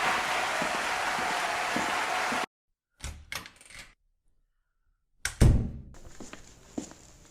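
A steady hiss that cuts off abruptly, then silence broken by a few quick knocks, and about five seconds in a single heavy thud, followed by faint room tone with small clicks.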